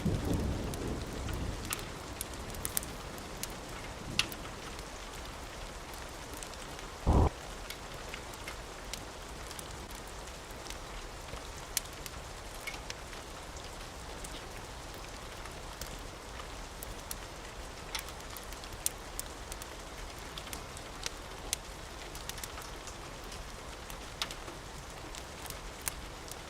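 Steady rain falling, with the last of a thunder rumble dying away at the start and scattered sharp crackles through it. A single brief, loud low thump about seven seconds in.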